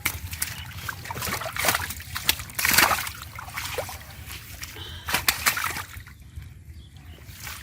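Shallow river water splashing and sloshing as it is disturbed by hand, in irregular bursts with trickling between, the loudest splash about three seconds in; a steady low rumble runs underneath.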